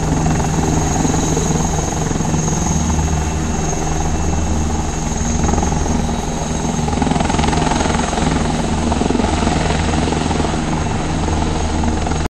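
Eurocopter Tiger attack helicopter hovering: a steady low rotor beat with a high, steady turbine whine over it. The sound cuts off abruptly near the end.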